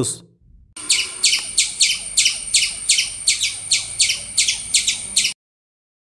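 Squirrel call: a quick run of sharp, high chirps at about three a second, starting just under a second in and cutting off sharply about a second before the end.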